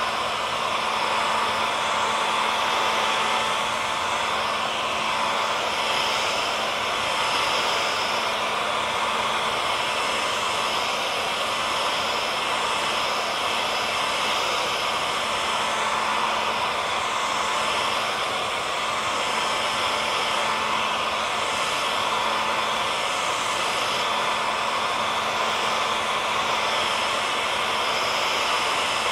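Hair dryer running steadily: an even whooshing hiss of blown air with a steady motor whine, without change.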